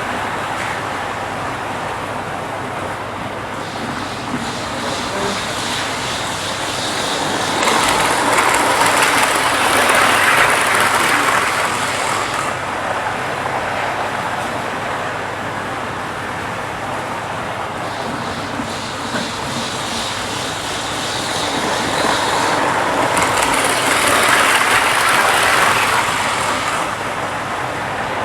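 Model train locomotives running on the layout's track: a steady noise that grows louder twice as the trains pass close, about 8 and 23 seconds in.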